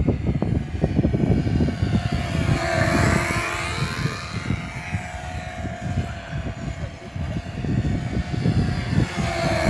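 Twin-engine control-line model airplane circling with both engines running. Their note rises and falls each time the plane sweeps past, twice, over a gusty low rumble.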